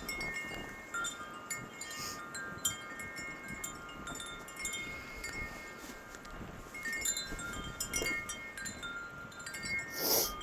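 Wind chimes ringing irregularly in the wind, several overlapping tones struck at random and fading away. A short, louder rush of noise comes near the end.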